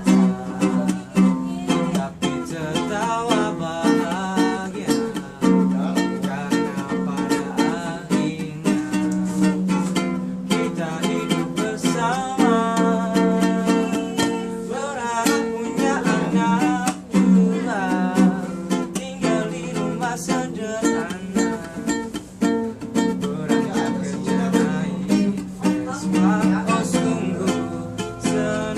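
A voice singing a song over a strummed acoustic string instrument, played continuously with a steady strumming rhythm.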